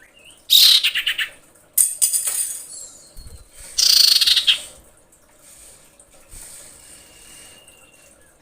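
Female common iora calling: three loud, harsh, fast-pulsed chattering bursts, each under a second long, then a faint thin whistle near the end. This is the call of a female in breeding condition calling to males.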